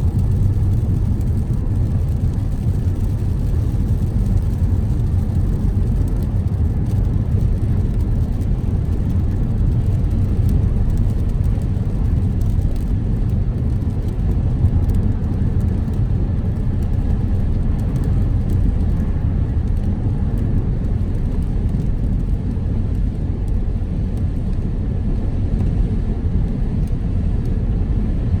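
A car driving at a steady speed: a constant low rumble of road and engine noise that holds even without changes.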